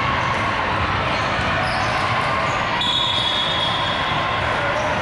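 Steady din of a large convention hall during junior volleyball play: balls being hit and bounced over a constant wash of crowd noise, with a couple of brief high squeaks.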